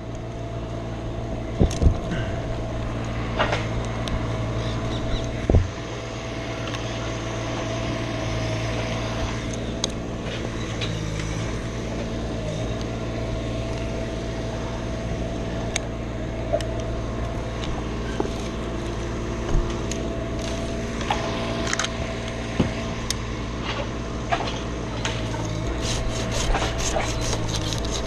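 An engine running steadily in the background, with scattered knocks and scrapes of climbing gear against the tree's wood and a quick run of clicks near the end.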